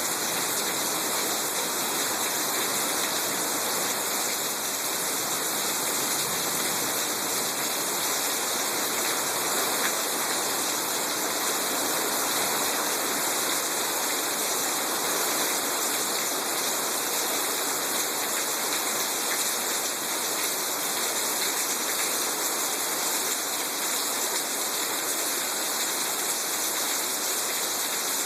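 Heavy thunderstorm rain pouring down steadily, an even hiss of falling water with no thunder.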